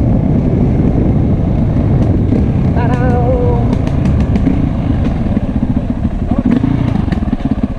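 Enduro motorcycle engine running hard under a rider, with rough wind noise on the microphone. About three seconds in there is a brief wavering call. From about five seconds on the engine sound turns slower and pulsed, as the bike drops to low revs.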